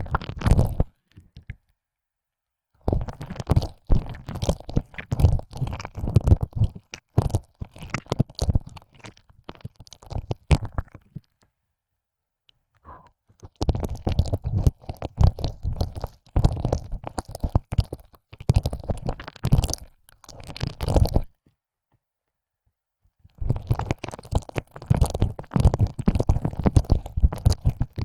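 ASMR ear licking: a tongue pushed in and out of an ear canal close to the microphone, wet crackling squelches and clicks in three long runs separated by a few seconds of silence.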